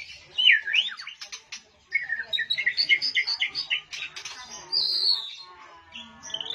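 White-rumped shama (murai batu) singing: quick whistled notes that glide up and down, mixed with sharp clicks, with a longer falling whistle about five seconds in.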